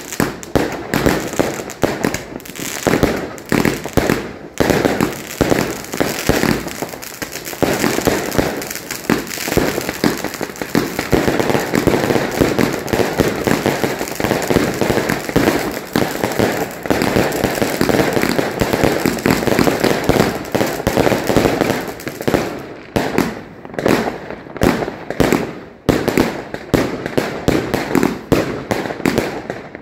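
Fireworks going off in a rapid, dense run of bangs and crackling that thins out into separate bangs with short gaps near the end.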